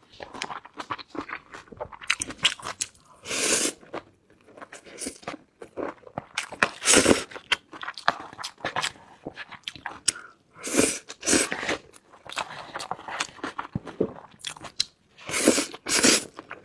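A person eating: crunching bites and chewing, with dense clicks throughout and a louder noisy burst about every four seconds.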